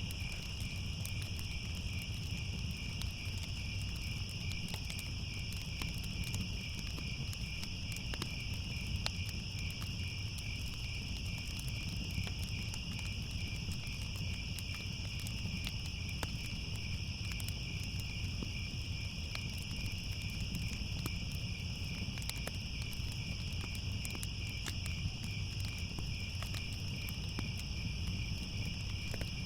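Crickets chirping without a break in a steady, finely pulsing high trill, with scattered sharp crackles of a wood fire and a low rumble underneath.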